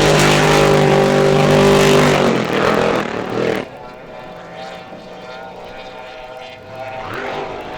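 Racing hydroplane engines at speed: a loud, steady engine note for the first two seconds or so that falls away by about three and a half seconds in. Quieter engine sound from farther off follows and swells a little near the end.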